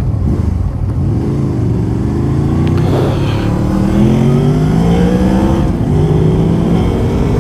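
Motorcycle engine accelerating through the gears: its pitch climbs, drops at a gear change about three seconds in and again near six seconds, then climbs once more.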